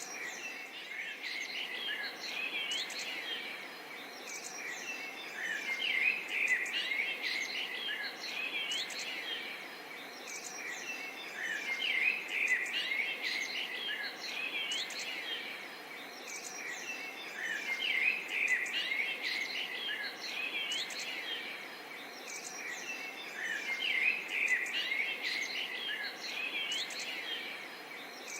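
Forest and swamp ambience: many birds chirping and calling at once over a steady insect chorus. The chirping swells and eases about every six seconds.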